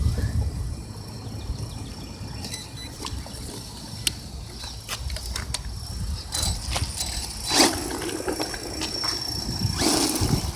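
Electric RC trucks straining in a tug-of-war pull, with a faint steady high motor whine, clicks and scrabbling bursts from the tyres and drivetrain, over a low wind rumble on the microphone.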